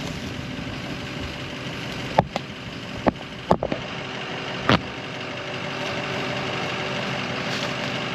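An engine idling steadily, with four sharp knocks a couple of seconds into it, spread over about two and a half seconds.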